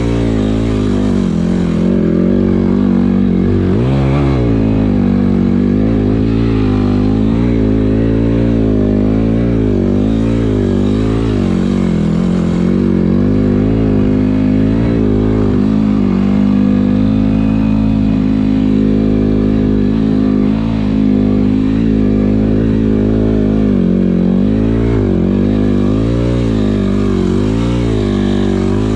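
Yamaha WR250F's single-cylinder four-stroke engine being ridden hard, the revs rising and falling continually with the throttle, including a quick sharp rev about four seconds in.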